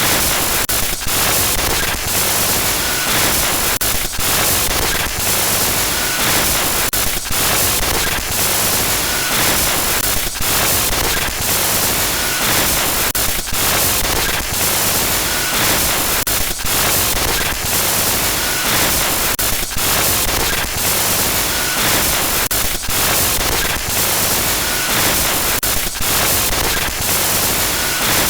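Synthetic glitch noise: loud, steady static hiss filling the whole range, broken by brief crackling dropouts about once a second, with a faint beep recurring every few seconds.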